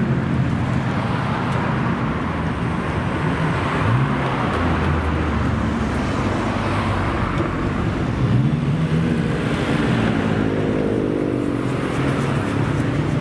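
Engines of modified cars driving past, their notes rising as they pull away, with one car passing close near the end.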